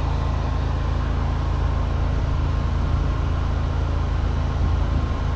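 Engine of a pressure-washing rig running at a steady idle: a constant low hum with no change in speed.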